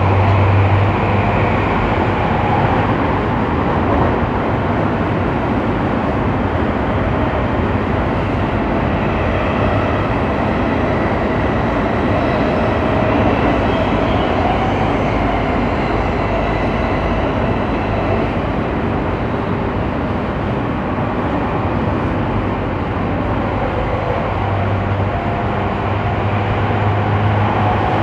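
JR East E231 series 800-subseries commuter train with its original traction equipment, heard from inside a motor car directly above the traction motors while running between stations: a steady rumble of wheels on rail mixed with motor noise.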